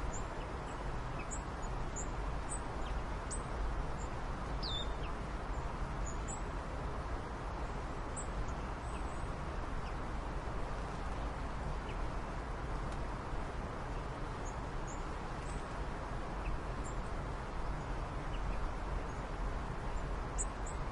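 Faint, brief, high bird chirps scattered over a steady background noise, with one short falling call about four and a half seconds in.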